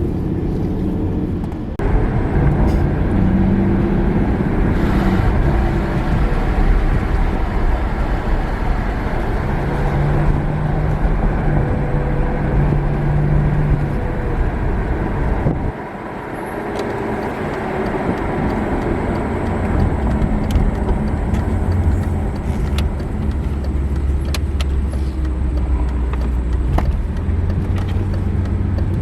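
A 2000 BMW 750iL's V12 engine running while the car is driven over road noise, its pitch shifting up and down in steps. About halfway through the sound drops suddenly, then builds back up, with a few faint clicks later on.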